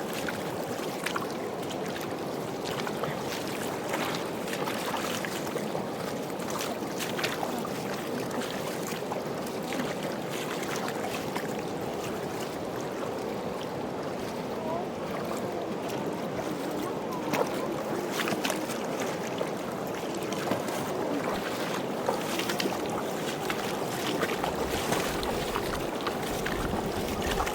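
Steady rush of a fast-flowing mountain river, with a few faint knocks scattered through. Low wind rumble on the microphone comes in near the end.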